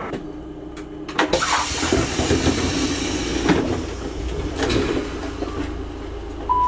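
Train carriage at a stop: steady low rumble, with a long hiss of air that starts about a second in after a few knocks. A falling two-note chime sounds near the end.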